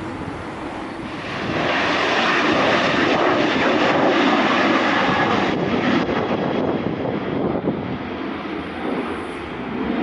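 Jet airliner taking off, its engine roar building about a second and a half in, then easing off after about six seconds.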